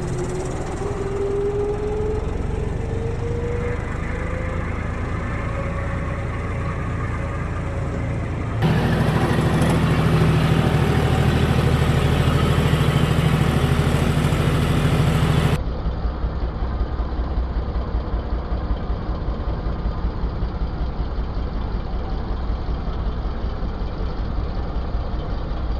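Tractor engine running steadily in three spliced clips; the sound changes abruptly twice, about a third of the way in and past halfway, with the middle part the loudest. A slow rise in pitch runs through the first part.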